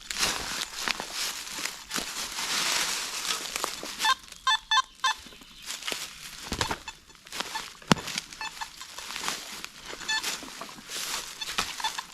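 Metal detector giving a signal: a quick run of about four short beeps around four seconds in, and a few fainter beeps near the end. Throughout, a rustling, crunching noise as the search goes on through the woods.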